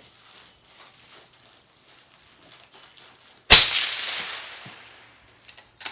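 A single rifle shot from a .243 rifle, about three and a half seconds in, followed by a long echo that fades over about two seconds.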